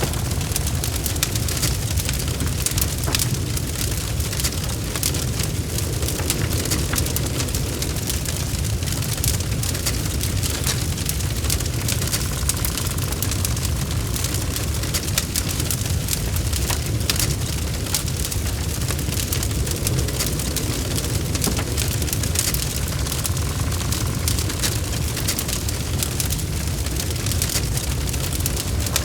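Wood logs burning in a fireplace: dense, irregular crackles and pops over a steady low rumble of the flames.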